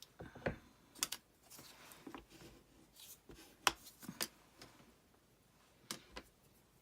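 Irregular light clicks and taps of craft tools and materials being handled on a work surface, about a dozen in all, the sharpest a little under four seconds in.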